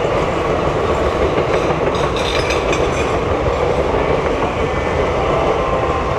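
Passenger coaches of an express train rushing past at speed without stopping: a loud, steady roar of wheels on rail with some clickety-clack. A brief high-pitched screech comes in about two seconds in and fades a second later.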